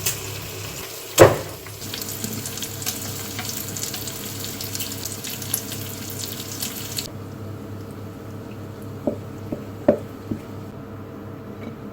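Water running from a tap into a sink, with one loud knock about a second in. The water is shut off about seven seconds in, followed by a few light knocks.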